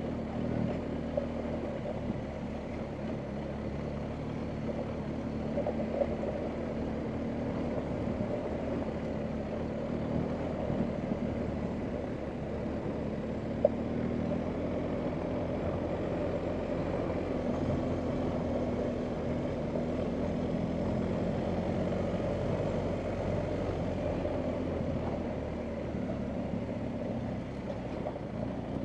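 BMW R1250GS Adventure's boxer-twin engine running steadily on a rough off-road track, with a few sharp knocks, the loudest about halfway through.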